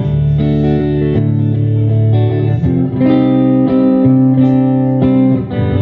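Live band playing the instrumental intro of a country song, led by electric guitar, with full held chords that change about every second.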